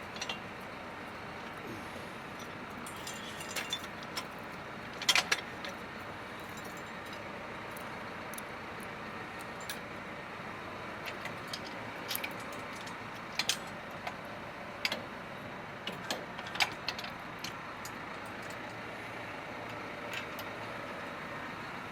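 Scattered metal clinks and knocks, sharpest about five seconds in, as the baler's tongue jack is raised and stowed, over a steady engine hum.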